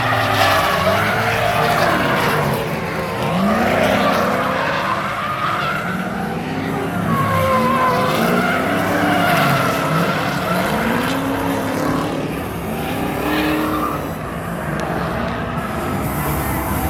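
Two drift cars, a Nissan S14 and an S13, sliding in tandem: engines revving up and falling back again and again as the drivers blip the throttle, over continuous tire squeal.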